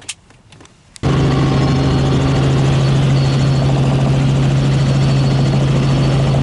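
Helicopter running: a loud steady drone with a strong low hum, cutting in abruptly about a second in after a quiet moment with a few faint clicks.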